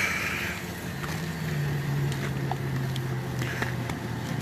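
A motor running with a steady low hum that starts about a second in and fades out near the end, over light outdoor background noise with a few faint clicks.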